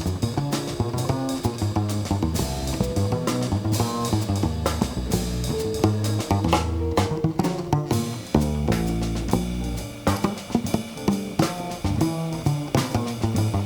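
Live jazz band playing: quick guitar notes over a drum kit and bass.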